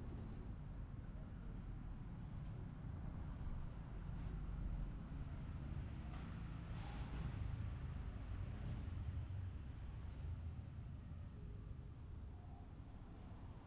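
A bird repeating a short, high chirp that slides downward, about every two-thirds of a second, over a steady low rumble.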